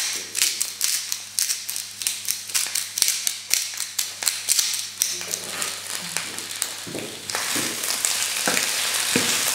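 Pak choi and cherry tomatoes sizzling in a hot frying pan. For the first few seconds there are rapid sharp crackles, then from about seven seconds in a steadier hiss as the vegetables are turned with a plastic spatula.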